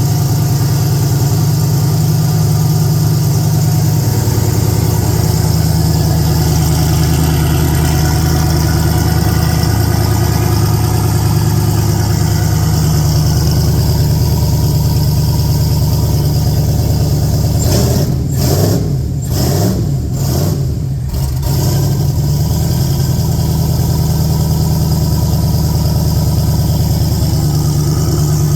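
Car engine idling steadily after a fresh start, its idle note shifting a few times, with a brief unsteady, uneven stretch about two-thirds of the way through before it settles again.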